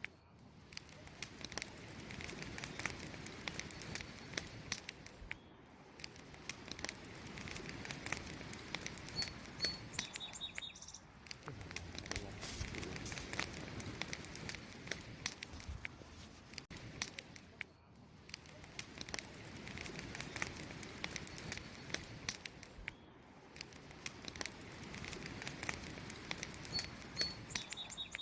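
Wood campfire crackling, with a dense run of small pops and snaps that swells and eases every few seconds. A bird gives a few short, high chirps twice: about a third of the way in and again near the end.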